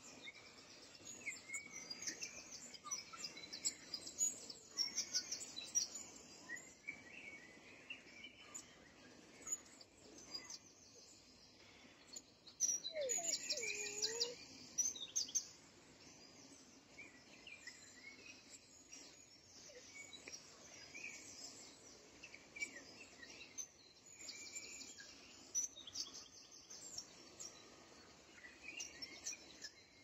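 Several birds chirping and singing, with repeated fast, high trills and scattered short chirps, busiest about halfway through.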